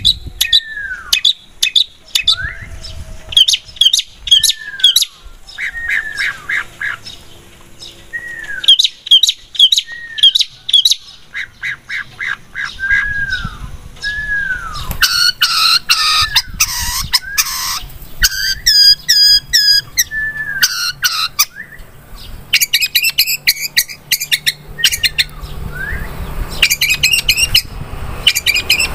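Long-tailed shrike (cendet) singing vigorously. It mixes repeated down-slurred whistles with rapid, harsh chattering phrases, and the chattering is loudest in the second half.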